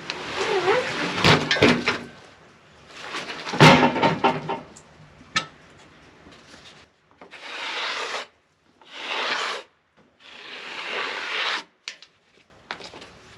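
Freshly sawn spruce being handled: irregular wood-on-wood scraping and rubbing, then three separate rubbing strokes of about a second each in the second half.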